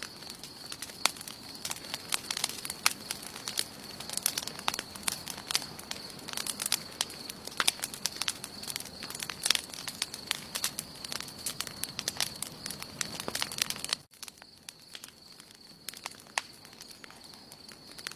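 Wood campfire crackling with frequent sharp pops. About 14 seconds in, the sound drops abruptly and the pops become sparse.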